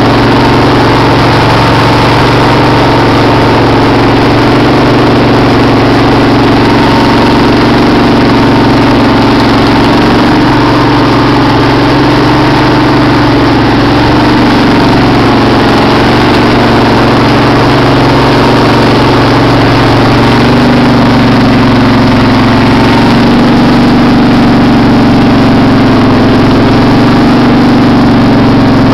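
Craftsman riding mower's engine running steadily and loud, shortly after a cold start with the throttle all the way up; its pitch dips slightly about two-thirds through.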